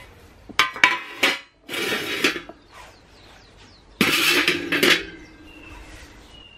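Metal cookware being handled: a few sharp clinks, then two longer scraping clatters, the second the loudest, with a little metallic ring.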